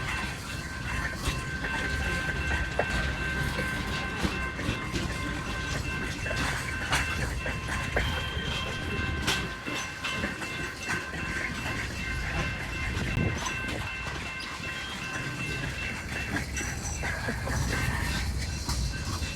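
Freight train cars rolling by, with wheels clicking over the rail joints over a steady low rumble. Faint high steady squealing tones sound through most of it and fade near the end.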